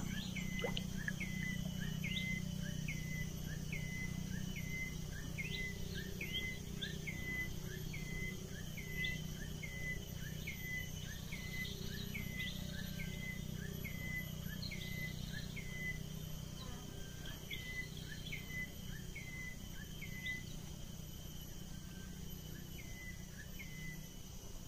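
A bird repeating a short chirp about twice a second, pausing briefly a few times, over a steady high insect hum.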